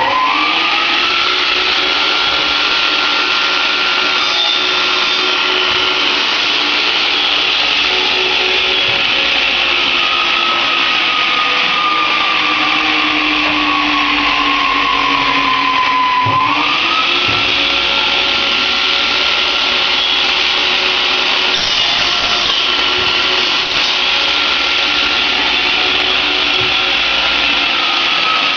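Electric power tool motor running at full speed with a steady high whine. Its pitch sags gradually for several seconds around the middle as if under load, then quickly picks back up.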